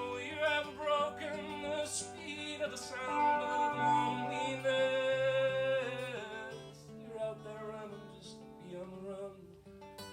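Country band playing the closing bars of the song live: acoustic guitar and bass under a held, wavering lead line, dying down toward the end.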